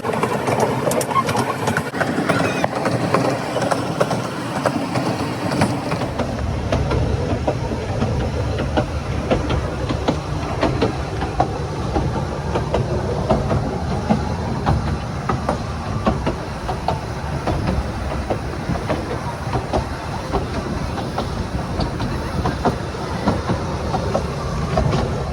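Brecon Mountain Railway narrow-gauge train in motion, heard from aboard: wheels clicking and rattling over the rail joints. A deeper rumble picks up about six seconds in.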